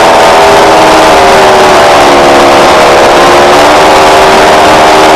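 Loud, steady engine drone with a slowly wavering pitch.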